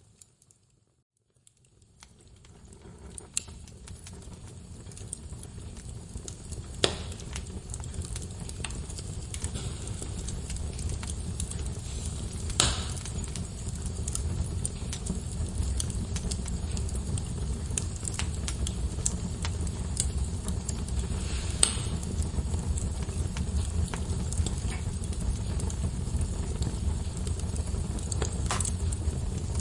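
Wood fire crackling in a fireplace, with a low steady rumble and a scatter of sharp pops from the burning logs, several of them standing out. It starts from near silence and fades in over the first dozen seconds.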